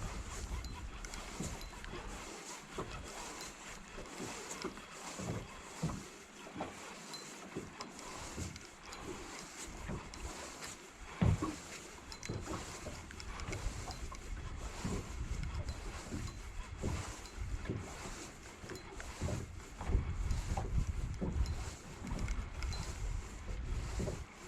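Irregular knocks and clatter of gear being handled in a small fishing boat, over a low rumbling background that swells in gusts near the end.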